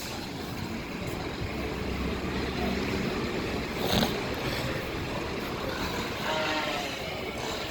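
Subway train running on the elevated BMT Jamaica Line, a steady rumble with a single sharp clank about four seconds in and a brief tonal squeal near the end.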